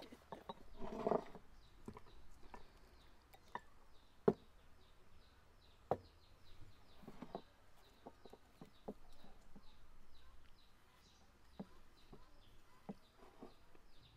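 Small songbird chirping over and over, about three short high chirps a second, with scattered sharp clinks of tea glasses and dishes being set down on the table.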